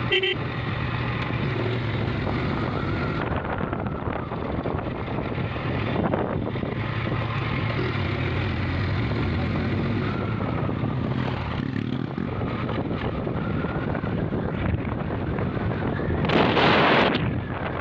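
Motorcycle engine running while riding, with wind rushing over the microphone. A louder burst of rushing noise comes near the end.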